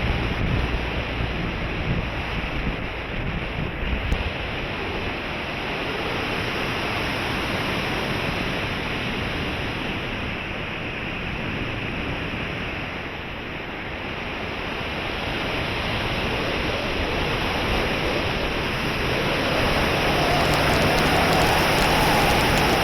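Wind rushing over the microphone, an even noisy rush that eases off in the middle and swells again. A faint steady hum joins it near the end.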